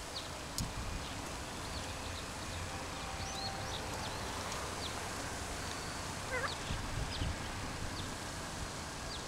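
Outdoor ambience: a steady hiss with scattered short, high bird chirps, and a few faint low thumps.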